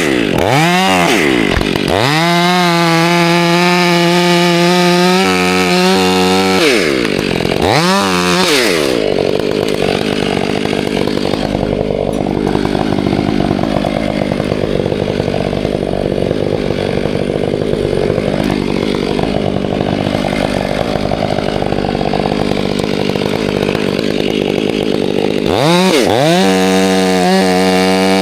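Two-stroke chainsaw revving up and down several times, then running under load with a rougher, less even sound for about fifteen seconds, as when cutting into wood. It revs up again near the end.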